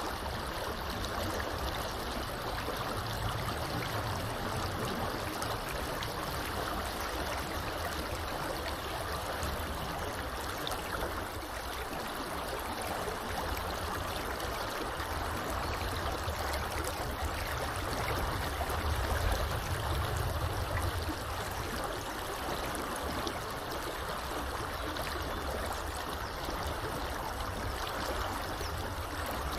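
Small river flowing steadily, an even rushing of water, with a low rumble underneath that swells and fades.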